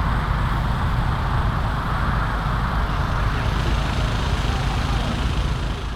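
Ford Ranger pickup truck running steadily: a low engine rumble with road noise.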